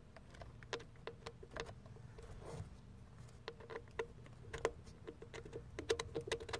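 Quick, irregular light clicks and taps with a slight ring, from small hardware being handled and fitted by hand. They come more thickly toward the end.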